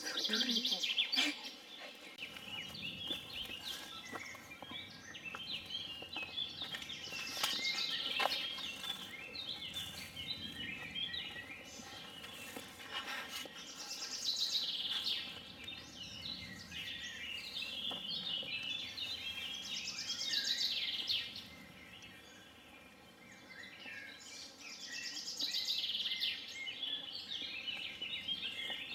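Birds singing and chirping, several at once, with a louder high song recurring every six seconds or so.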